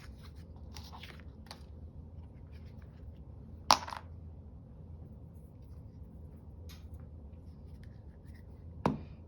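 Paper and craft materials being handled on a work table: a few short, faint scratchy sounds, then two sharp knocks, one about four seconds in and a softer one near the end, over a low steady hum.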